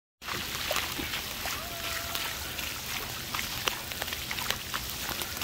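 Heavy rain falling, a steady hiss full of sharp individual drop hits, over shallow floodwater running along a wadi bed. The sound starts abruptly a moment in.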